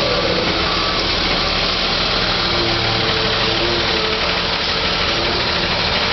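Recycling truck engine idling steadily, with a constant low hum.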